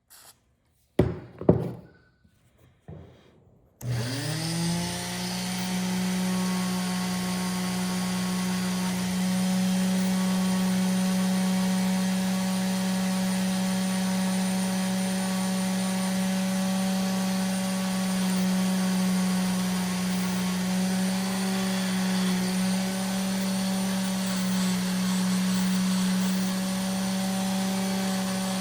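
A few handling knocks, then a small high-speed electric rotary tool switches on about four seconds in, winds up in pitch and runs steadily, working on stubborn stain spots on a pocket-knife blade.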